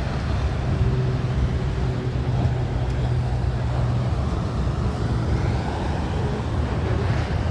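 Road traffic: a low, steady rumble with a vehicle engine's hum that holds for the first few seconds and then fades into the rumble.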